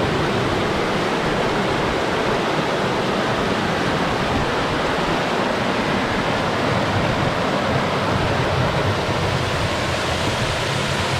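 Creek water rushing and cascading over rocks, loud and steady.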